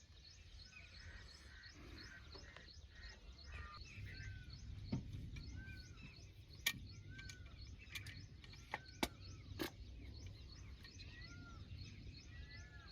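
Faint outdoor ambience: birds calling, with a steady run of short high chirps and now and then an arching whistled call, over a low rumble. A few sharp clicks come between about five and ten seconds in.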